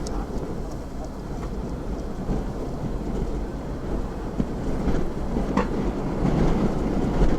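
Strong wind rushing and buffeting the microphone, a low steady rush that slowly grows louder, with a faint knock or two.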